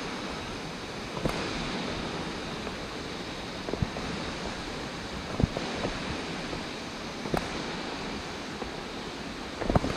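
Steady rushing of a mountain stream below the trail, with a few scattered footsteps and knocks on the rocky path, several close together near the end.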